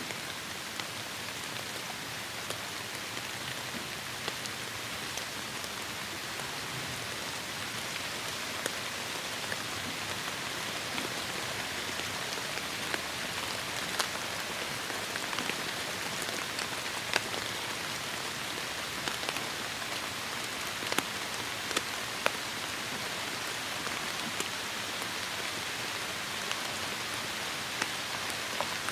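Heavy rain falling steadily, a dense even hiss with scattered sharper drop ticks standing out here and there.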